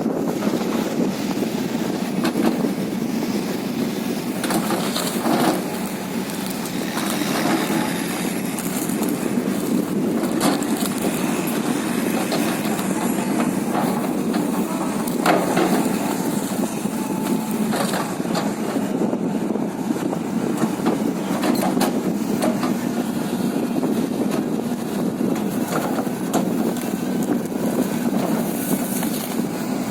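Excavator engine running steadily under load while wood is crushed and broken, with a few sharp cracks of splitting wood.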